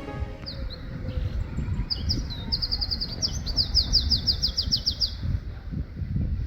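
A small songbird singing: a fast run of high, down-slurred notes that starts about two seconds in and lasts about three seconds, with a few single notes before it. A low, uneven rumble runs underneath.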